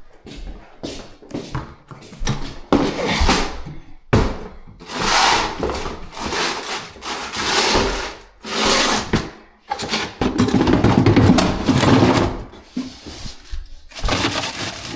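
Irregular bursts of scraping and rustling from handling plumbing parts and tools, each lasting a second or two, the longest near the end.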